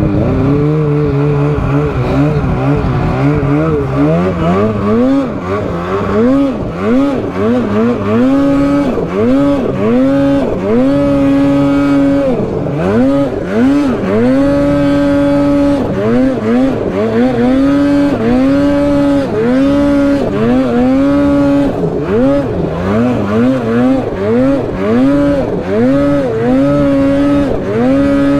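Snowmobile engine ridden hard, its revs dropping sharply and climbing back again and again as the throttle is chopped and reapplied, holding a steady high pitch between the dips.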